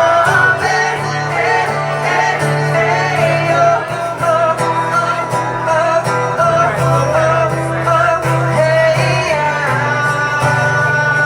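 A song performed live: a voice singing a melody over guitar accompaniment.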